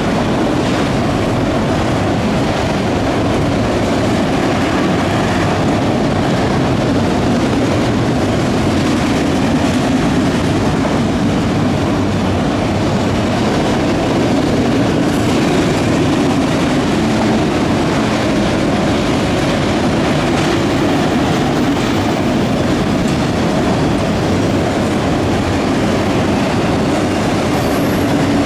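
A fast freight train of autorack cars rolling past, its steel wheels on the rails making a loud, steady rumble.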